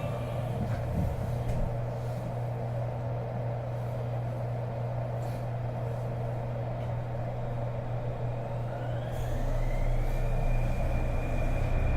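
Cabin running noise of a Kobe New Transit 2020-series rubber-tyred automated guideway train: a steady low rumble with the cabin heater running. About three-quarters in, a motor whine rises in pitch and then holds steady as the train gathers speed, and the noise grows a little louder.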